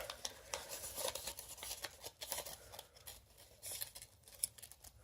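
Faint rustling and light ticks of a sheet of paper being folded and creased by hand into a paper airplane.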